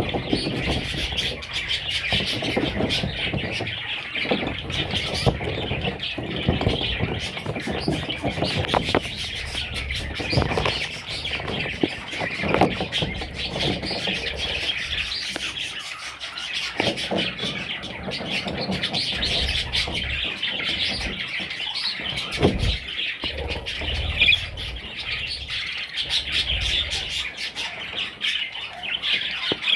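Budgerigar chicks chirping without a break, a dense stream of high chirps, with a few soft low knocks scattered through.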